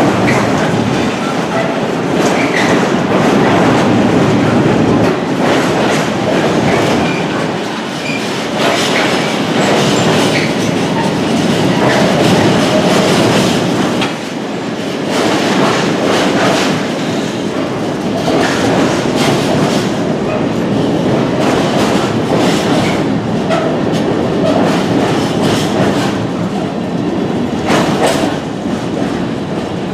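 Intermodal freight train of loaded container wagons rolling past at close range: a steady rumble with the wheels clacking over the rail joints.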